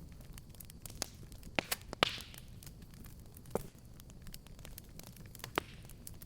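Fireplace fire crackling: scattered sharp pops, the loudest about two seconds in followed by a brief hiss, over a low steady rumble of the flames.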